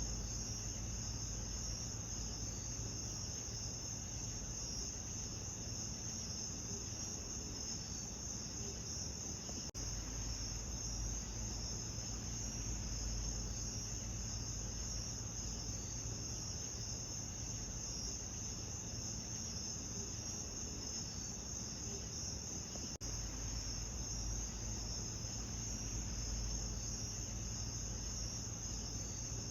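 Steady chorus of crickets chirping, a constant high shimmer, over a low steady rumble. Two faint seams, about ten seconds in and again about twenty-three seconds in, where the recording is spliced.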